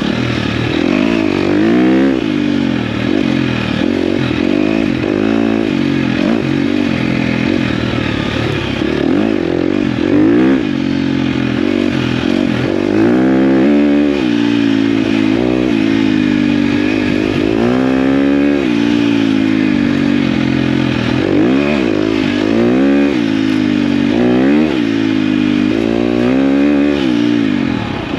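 KTM dirt bike engine being ridden, its pitch rising and falling again and again as the throttle opens and closes and the gears change.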